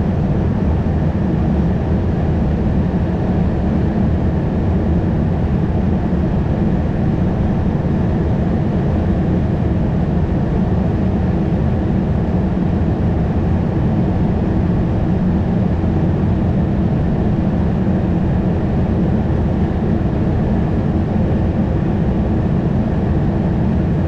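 Steady cockpit noise of a Swiss Airbus A220: an even rush of airflow and engine drone, deep and unchanging throughout.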